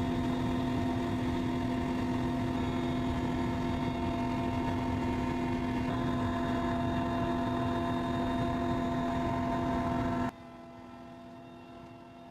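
Helicopter running with a steady drone of engine tones over a low rumble. About ten seconds in it cuts abruptly to a much quieter hum.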